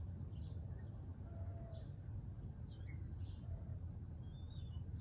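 Birds chirping in short, high calls about a second or so apart, over a steady low rumble.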